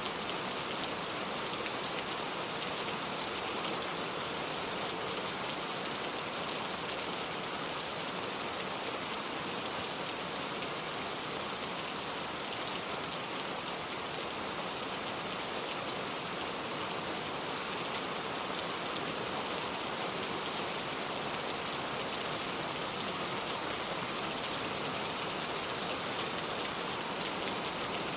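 Heavy rain pouring steadily, a dense even hiss of countless drops striking a surface, with one slightly louder drop tick about six seconds in.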